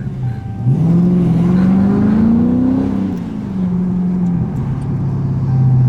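Dodge Scat Pack's 6.4-litre (392) Hemi V8 revving hard. The note jumps up about a second in and climbs for around two seconds, then drops back and settles into a steady loud run.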